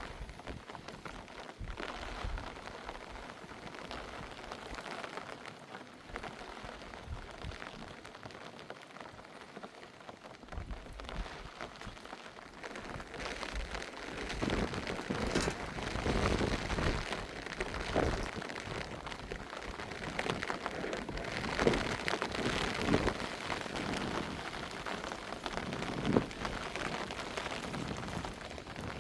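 Rain falling steadily, growing louder and more uneven from about halfway through.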